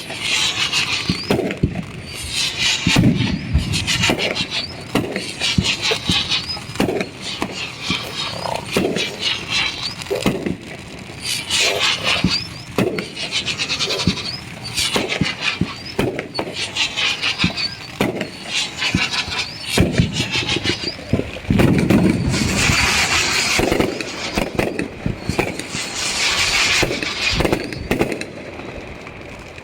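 Fireworks crackling and popping in quick, irregular runs of sharp cracks, loudest about two-thirds of the way through.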